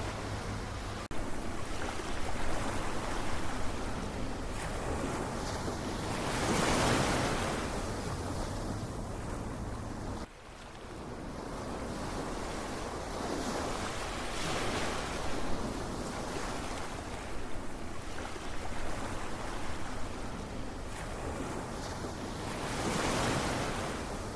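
Ocean surf: a continuous wash of water with waves swelling and breaking three times, roughly every eight seconds. The sound drops out suddenly for a moment about ten seconds in and fades back.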